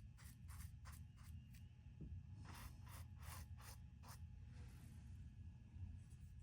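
Faint, quick scratchy strokes of a brush working a painting's surface, about five a second, in two runs with a short pause near two seconds in. The strokes stop about four seconds in.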